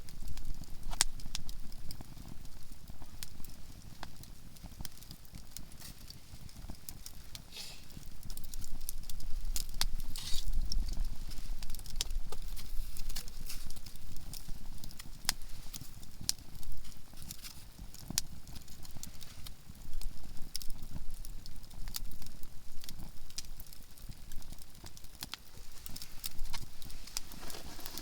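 Conifer firewood burning in a campfire, crackling with frequent sharp, irregular pops.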